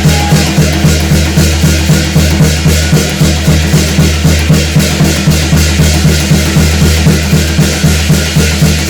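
Korean shamanic ritual (gut) percussion music: drums beaten loudly in a steady, even rhythm of about three strokes a second over a constant high shimmer.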